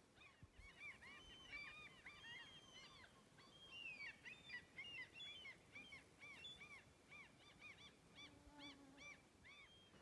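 A distant flock of birds calling, faint: many short rising-and-falling calls overlapping, busiest in the middle.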